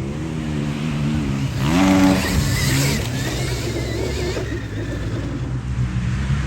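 Stark Varg electric dirt bike's motor whining under throttle on a track, its pitch rising as it accelerates about two seconds in, over steady noise.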